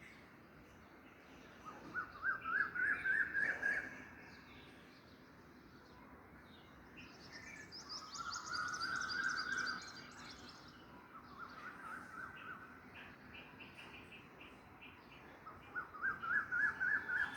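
Birds singing: a phrase of quick zigzag notes that climbs in pitch comes about two seconds in and again near the end. In between there are lower warbled phrases and a higher, thinner twittering song.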